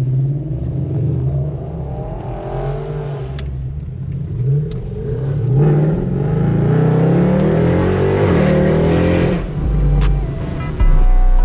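V8 car accelerating, its exhaust note climbing steadily in pitch for several seconds through the middle and then falling away as the throttle is lifted. Loud music with a drum beat cuts in near the end.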